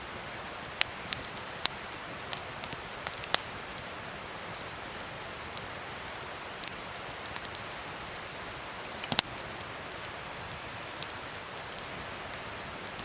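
Wood fire crackling: a steady hiss with irregular sharp pops, a cluster in the first few seconds and the loudest about nine seconds in.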